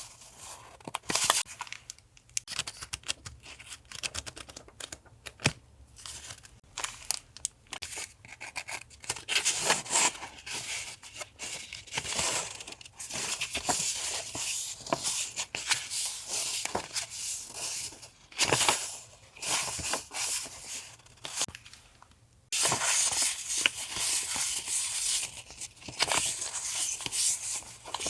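Paper and plastic packaging of stationery being handled and torn open: irregular crinkling, rustling and small clicks with short pauses. A denser, continuous crinkling starts about twenty-two seconds in.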